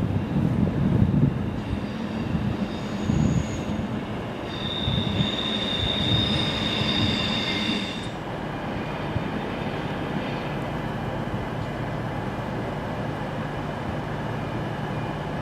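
Train wheels rumbling and knocking over rail joints, then a high steady wheel squeal for about three seconds, after which a steady low hum remains.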